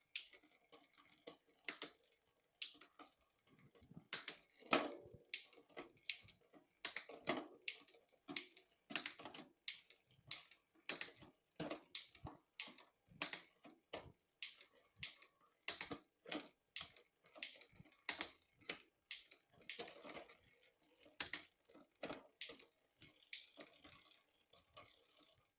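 Bicycle 10-speed drivetrain being run through the gears by hand: a steady run of sharp clicks, about two a second, from the trigger shifter and the chain jumping across the cassette cogs, with a few heavier clunks among them. The shifting is being tested after new shift cable and housing were fitted.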